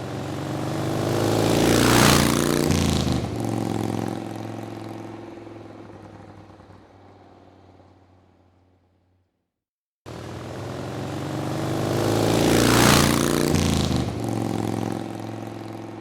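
A motor vehicle drives past at speed. Its engine swells to a peak about two seconds in, drops in pitch as it goes by, and fades away to silence by about nine seconds. The same pass-by then plays again, cutting in abruptly about ten seconds in.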